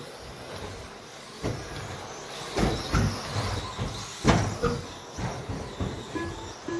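1/10-scale 13.5T brushless 2WD RC stadium trucks racing on a carpet track: a steady whir of motors and tyres, broken by several sharp knocks at irregular intervals.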